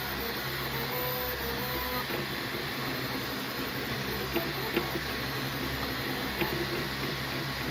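3D printer running: a steady fan hum under short whining stepper-motor tones that change pitch and start and stop as the print head moves, with a few light clicks.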